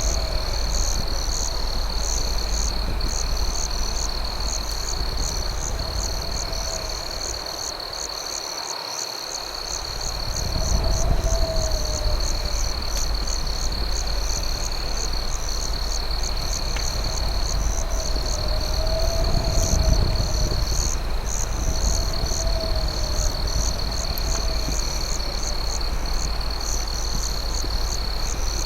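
Night insect chorus of crickets: one steady high trill and a fast, evenly pulsing chirp above it, with low warbling croak-like calls every few seconds. Underneath runs a steady low rumble that dips briefly about eight seconds in.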